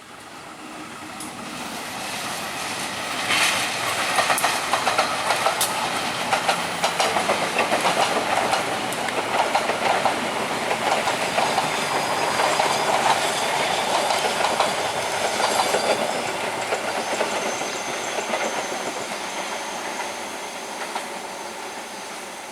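Passenger train passing. The rolling noise builds over the first few seconds, the wheels clatter over the rails with many sharp clicks through the middle, and the sound slowly fades as the train moves away.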